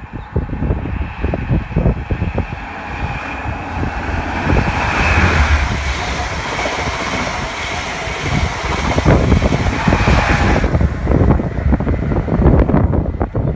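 InterCity 125 High Speed Train (Class 43 power cars with Mark 3 coaches) approaching and passing at speed. A steady high whistle from the leading power car gives way to a loud rush of wheel and rail noise as the coaches go by, and the rear power car comes through loud near the end. Irregular low thumps of wind on the microphone run throughout.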